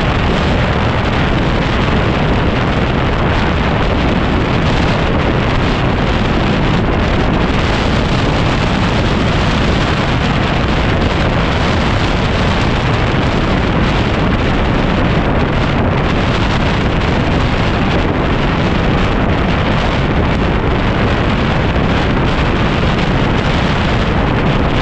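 Heavy, steady wind noise buffeting the microphone of a camera on a moving dirt bike, drowning out nearly everything else.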